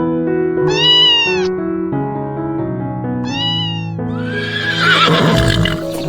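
A domestic cat meows twice, two short rising-and-falling calls, over steady background music. Near the end a horse whinnies, a louder, rougher, wavering call.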